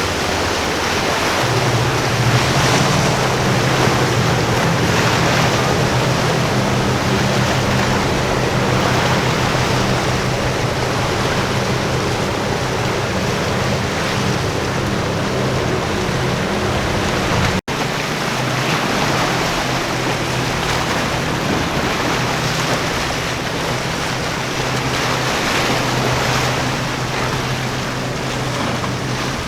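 Motorboat engine droning steadily in a low hum over a constant wash of surf and wind noise on the microphone. The sound cuts out for an instant about two-thirds of the way through, and the engine hum is weaker afterwards.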